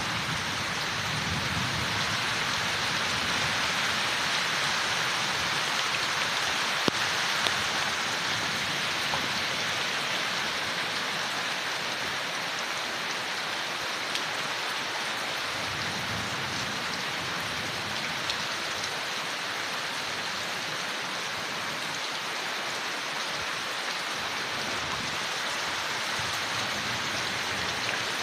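Steady rain falling on forest leaves, with single drops ticking now and then. A soft low rumble swells near the start and again about halfway through.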